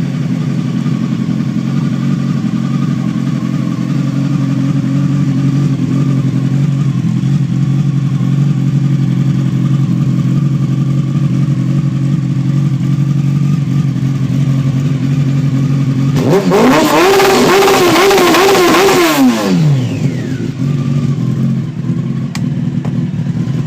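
Motorcycle engine with a modified, cut-short exhaust idling steadily, then revved once about sixteen seconds in, its pitch climbing and falling back to idle over about three seconds.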